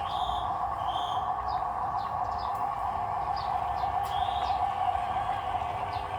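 Birds chirping in short calls, repeated every second or so, over a steady drone.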